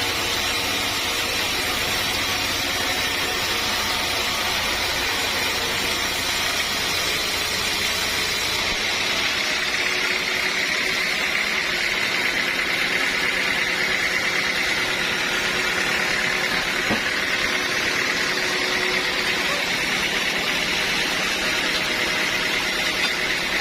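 Sawmill saw running steadily with a continuous mechanical whine, its sound shifting slightly about nine seconds in.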